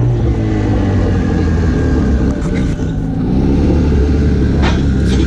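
Car engine running at low revs with a deep, steady rumble, its pitch easing down at the start and then holding. A couple of short knocks come near the end.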